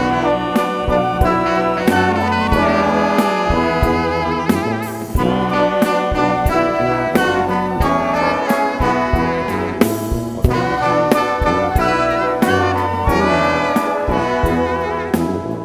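Live band music: several held, wavering pitched lines over frequent drum hits, with a short crash about ten seconds in.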